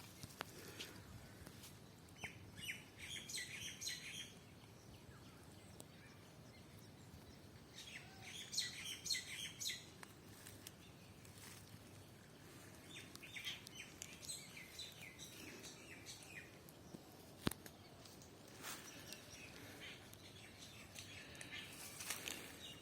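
Small birds chirping in quick bursts of high notes, four bouts separated by pauses, over faint outdoor background. A single sharp click about three-quarters of the way through.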